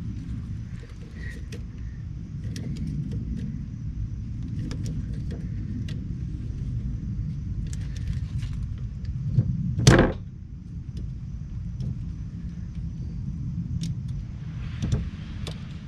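Hand tools and metal parts clicking and knocking while the front fuel tank strap is worked loose under a Jeep, with one loud clank about ten seconds in and a smaller knock near the end, over a steady low rumble.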